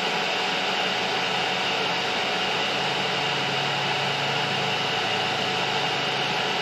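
Steady hiss with a low hum from a TIG welding setup running while stainless-steel exhaust pipe is tack-welded; a low hum grows stronger about three seconds in.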